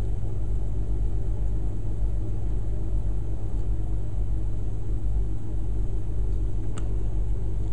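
Heavy engine idling steadily with a low, even rumble, with one short click near the end.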